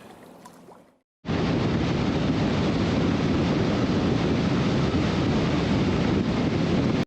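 Wind rushing over the microphone of a moving motorcycle, with road and engine noise beneath; it starts suddenly about a second in and holds steady.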